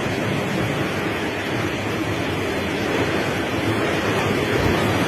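Heavy rain pouring in strong wind, a steady rushing noise that grows slightly louder toward the end.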